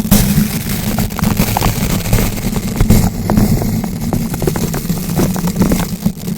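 Bristle brush rotated against a bare microphone, scratching and crackling: a steady low rumble scattered with many fast, irregular crackles and clicks.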